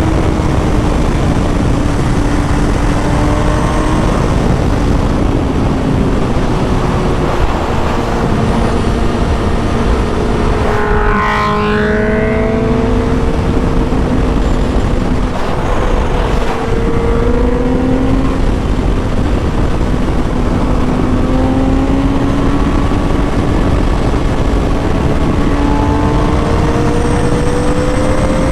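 Motorcycle engine running at cruising speed under heavy wind rush, its pitch drifting slowly up and down as the throttle changes. About eleven seconds in there is a short, quick rise in engine pitch.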